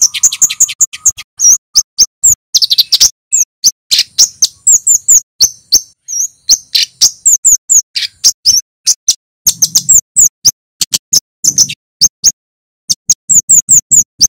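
Male kemade (Javan flowerpecker) calling loudly: a fast string of sharp, high 'cit' chips and short down-slurred notes, some run together in quick volleys, with a brief pause about twelve seconds in.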